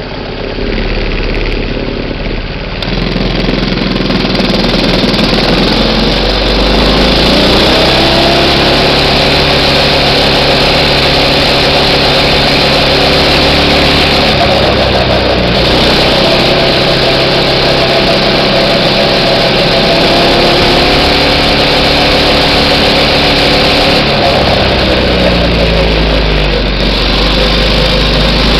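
A minibike's small engine running and revving. Its pitch climbs over the first few seconds, holds, eases off about halfway through, picks up again, and drops back near the end.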